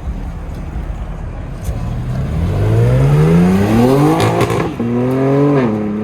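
Car engine accelerating hard away from a standstill: a low rumble, then a steadily rising engine note that drops sharply twice near the end as it shifts up, climbing again after each shift.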